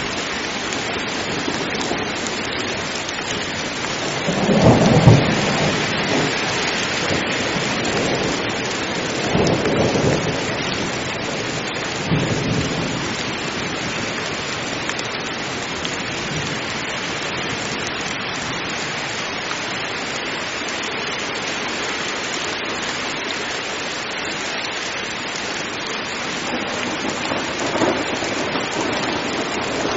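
Heavy rain falling steadily, with low thunder rumbling several times: the loudest rumble about five seconds in, weaker ones a few seconds later and again near the end.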